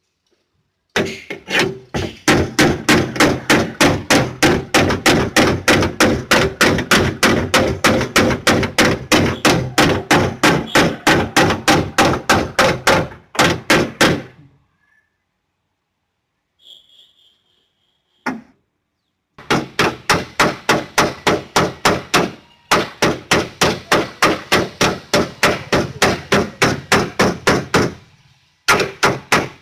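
Hammer beating a dented car body panel, rapid steady blows at about four a second with a metallic ring, in long runs broken by a pause of several seconds in the middle.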